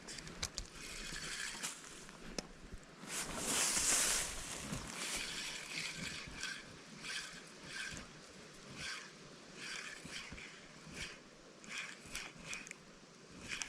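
Water sloshing and splashing, with one louder splash about four seconds in, then short sloshes coming about once a second.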